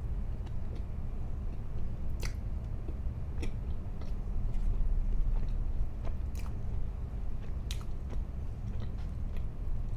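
A person chewing food close to the microphone, with wet mouth sounds and a few sharp crunchy bites spread through, over a steady low hum.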